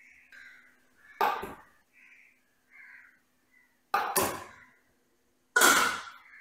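Crows cawing repeatedly in the background, with a faint steady hum. Three loud, sharp clatters, each fading quickly, come about a second in, about four seconds in and near the end.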